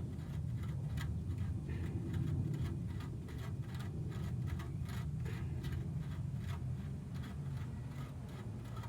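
Irregular light clicks and scrapes of the old oil filter being screwed back onto the engine by hand, over a steady low rumble.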